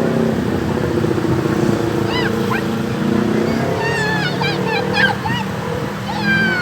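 Diesel locomotive hauling the Penataran train, running with a steady low engine drone as it comes into the station. Short high chirping calls sound over it from about two seconds in.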